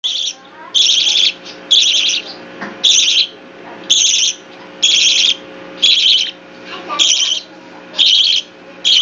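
A three-week-old pet bird chick calling over and over in short bursts of about half a second, roughly one a second, high in pitch.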